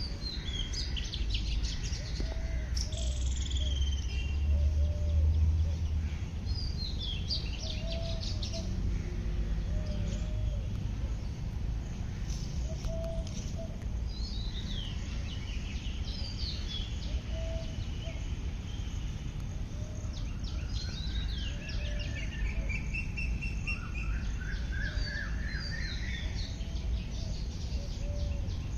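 Wild birds singing, with several phrases of chirps and trills. A lower, short call repeats every second or two throughout. A steady low rumble runs underneath and swells briefly a few seconds in.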